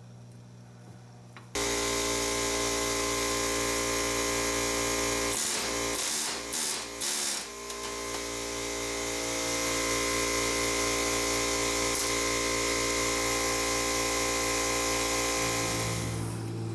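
A small electric power-tool motor switched on suddenly and running at a steady pitch, with a few brief stutters in the middle, then dropping away near the end.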